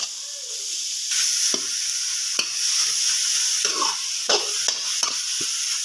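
Grated carrots sizzling in a little ghee in a metal kadhai, with a steady frying hiss and a spoon scraping and clicking against the pan as they are stirred.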